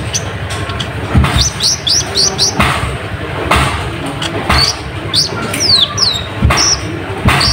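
Konin (kolibri ninja sunbird) calling busily: runs of short, high chirps that sweep downward, some in quick succession, mixed with a few short thumps and rustles.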